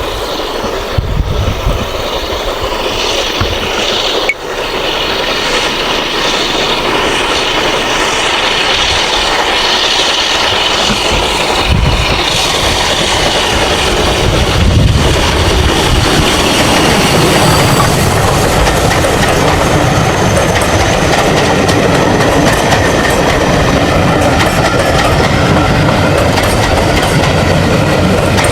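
A train running on the track, its wheels clattering over the rail joints; the noise builds over the first few seconds and then holds steady and loud.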